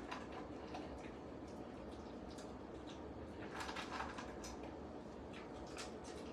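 Faint scattered clicks over a steady hiss, with a short run of crunching and clicking about three and a half seconds in: a dog eating dry food from its bowl.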